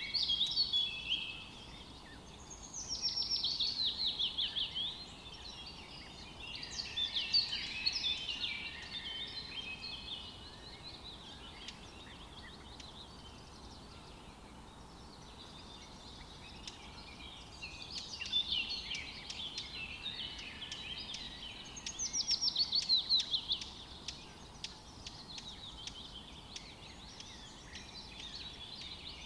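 Forest birdsong: several bursts of song made of rapid, high, mostly descending notes, each lasting a couple of seconds, with quieter pauses between, over a faint steady background hiss.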